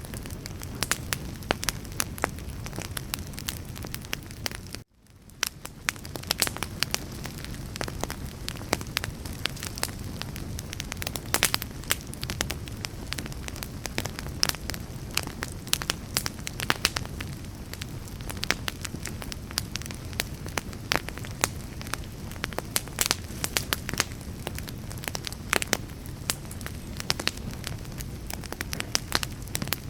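Wood fire burning, with steady crackling and sharp pops over a low rumble of flames. About five seconds in, the sound cuts out for a moment and fades back in.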